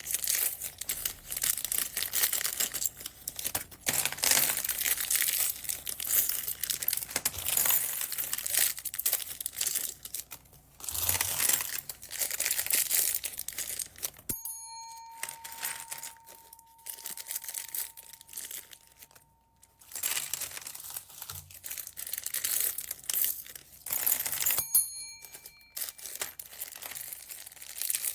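Small plastic bags of beads crinkling and rustling as they are handled and torn open, in dense crackly runs. About halfway through the crinkling stops abruptly and a thin steady tone rings for about five seconds before the crinkling resumes.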